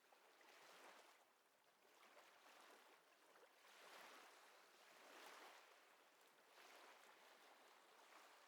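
Faint recording of ocean waves washing in and out: a soft hiss that swells and fades every second or two.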